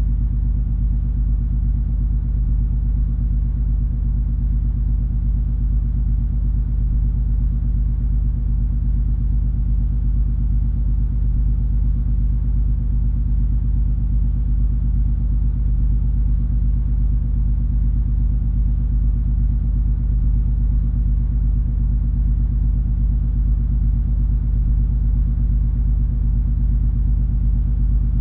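Steady low rumble and hum of a cruise ferry under way, its engines droning evenly with several deep steady tones.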